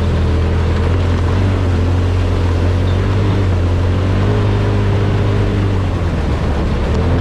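Side-by-side UTV engine running at a steady speed on a trail ride, a constant low drone with rolling noise over it; the level dips briefly about six seconds in.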